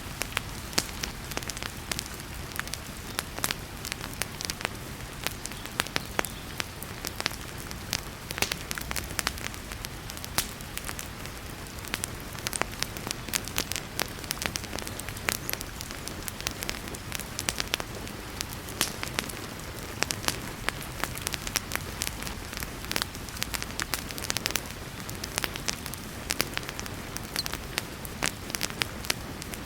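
Wood fire crackling in a fireplace, with frequent sharp pops and snaps over a steady hiss of heavy rain.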